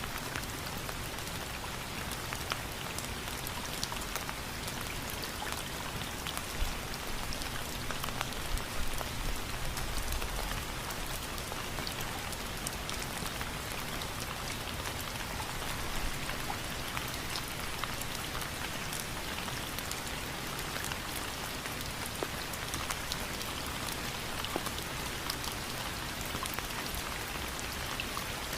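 Steady rain falling, a constant hiss dense with the ticks of individual drops striking a surface.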